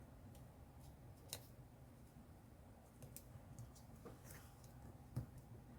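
Faint, scattered clicks and taps of paper and card pieces being handled and laid down, over a low room hum; one slightly louder tap near the end.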